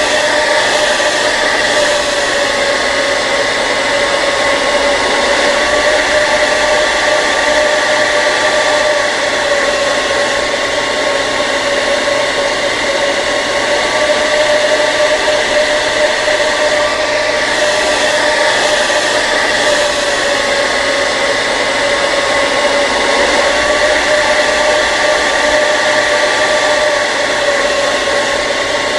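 Hair dryer running continuously: a steady rush of blowing air under a steady motor whine, the whine wavering slightly in pitch now and then.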